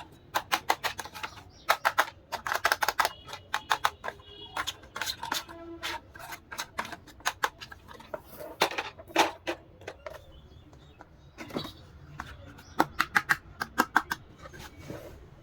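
Plastic toy doll-house parts being handled: quick runs of sharp clicks and taps, several a second, with short pauses between them.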